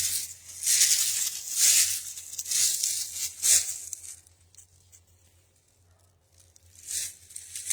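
Footsteps crunching through dry ground litter, about one step a second, stopping for a few seconds midway and then starting again.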